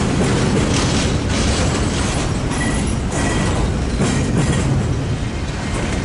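A train rolling past close by: a steady, loud rumble and clatter of wheels on the rails, with irregular clicks over the joints.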